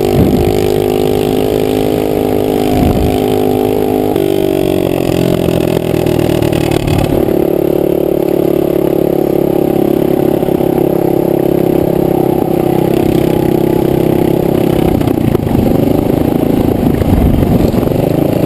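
Small minibike engines running hard, their pitch holding mostly steady and shifting a few times as they speed up and ease off.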